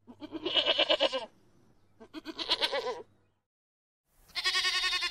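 Goat bleating three times, each call a quavering bleat about a second long.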